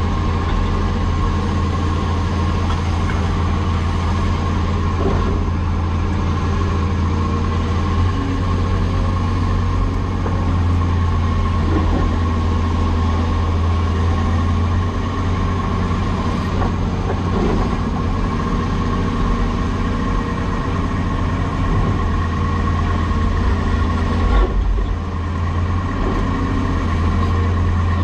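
Heavy diesel engine of a Cat 336E excavator running steadily, a deep drone with a steady higher whine over it. There is a brief clunk about 24 seconds in.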